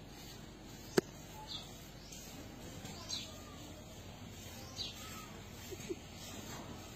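A bird chirping three times, short falling chirps, over a steady background hiss. A single sharp click about a second in is the loudest sound.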